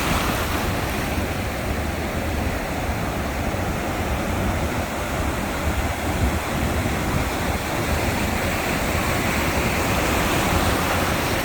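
Sea waves breaking and washing ashore: a steady rush of surf that swells a little near the end.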